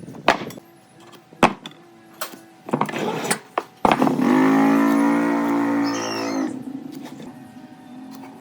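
Several sharp knocks, then a loud, steady, pitched drone with many overtones that starts abruptly about four seconds in, lasts about two and a half seconds and fades out.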